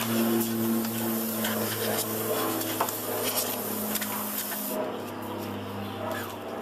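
Can of compressed air (air duster) spraying in a steady hiss, blowing dust out of a computer case; the spray stops about five seconds in. A steady low hum runs underneath.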